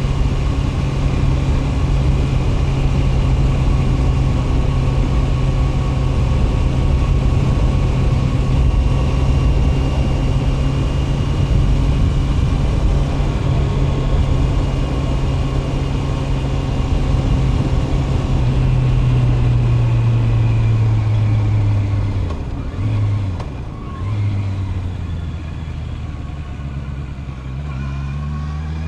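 Honda CB650R's inline-four engine running at steady riding revs, then easing off about two-thirds of the way through as the bike slows, with a short blip of the throttle, settling at low revs and starting to rise again right at the end.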